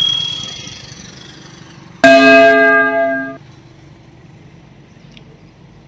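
Two bell-like chimes: a sharp metallic ding that rings and fades over about a second, then about two seconds in a loud, many-toned ring held for about a second and a half that cuts off suddenly.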